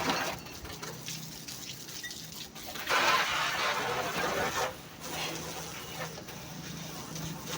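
Water spraying onto a truck during a wash, with a louder rush of spray about three seconds in that lasts under two seconds, over a steady low hum.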